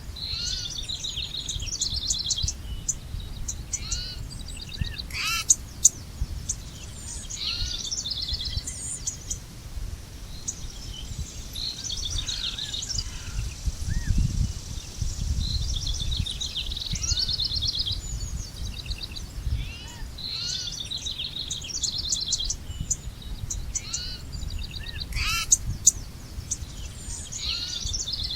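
Several birds singing, with repeated chirps and fast trills, over a steady low rumble that swells briefly midway. A couple of sharp clicks stand out.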